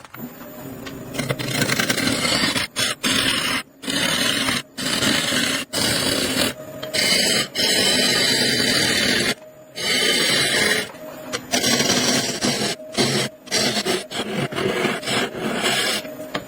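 Loud scraping, grinding noise of tools working wood, broken into short stretches by abrupt stops and restarts.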